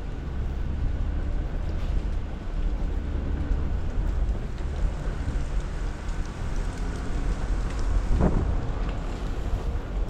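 Jeep Wrangler Rubicon driving slowly on a snowy off-road trail: a steady low rumble of engine and drivetrain with tyre and wind noise, and one short, louder noise about eight seconds in.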